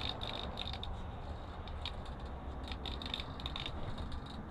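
Gusty wind rumbling on the microphone, with a scatter of small irregular clicks and rattles throughout.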